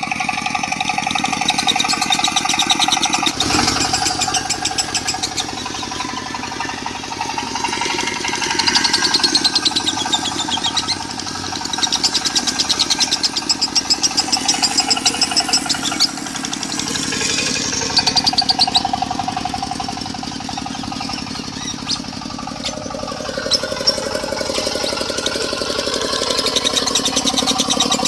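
A lovebird singing in long, rapid chattering trills, the 'konslet' style, over a diesel engine running steadily. The trilling comes in several bouts, between which the engine is more prominent.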